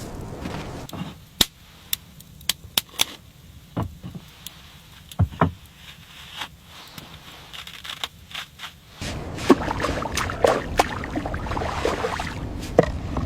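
A series of sharp, irregular knocks and clicks, about a dozen over several seconds. From about nine seconds in, a denser steady noise with more clicks.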